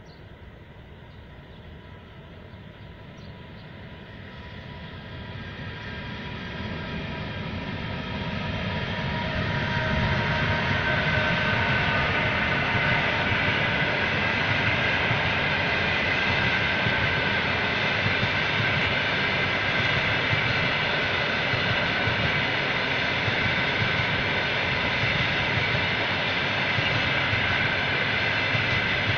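Russian Railways passenger train coming closer, its noise growing louder over the first ten seconds. It then holds as a steady rumble of coaches running past on the rails, with a steady high whine over it.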